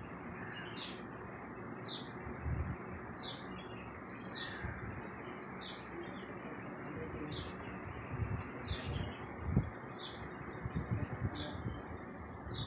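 A bird chirping over and over, one short high call roughly every second, over steady background noise with some low rumbling.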